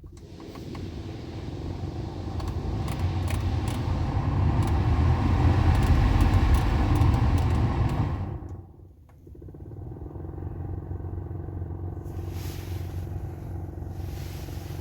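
Noisy AC blower motor in a 2021 Nissan X-Trail running with a rattle, a sign of a failing blower motor. The fan noise grows louder over the first several seconds, drops away sharply about eight and a half seconds in, then runs on steadier and quieter.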